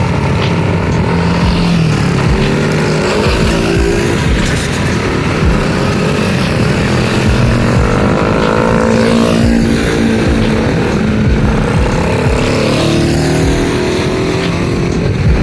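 Honda Super Cub's small single-cylinder four-stroke engine running on the move, its pitch rising and falling with speed, over a heavy rumble of wind on the microphone.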